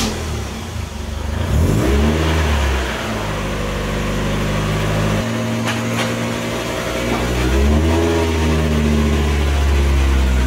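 A 1991 Mazda Miata's four-cylinder engine idling through a Racing Beat exhaust, with the revs rising and falling twice, about two seconds in and again near eight seconds.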